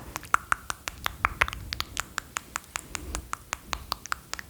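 Close-miked ASMR lid sounds: a quick, irregular run of sharp clicks and taps, about five or six a second.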